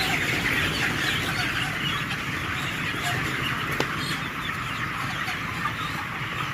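A large flock of 26-day-old broiler chickens clucking and peeping together in a dense, continuous chorus over a steady low hum, with one brief click a little past the middle.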